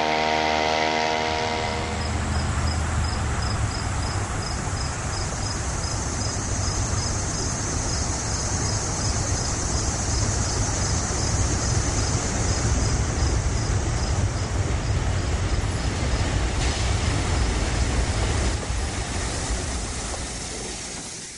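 A small two-stroke chainsaw engine running on a homemade rail go-kart for the first two seconds, then a passing train: a steady heavy rumble with a faint fast ticking of about three a second, fading out near the end.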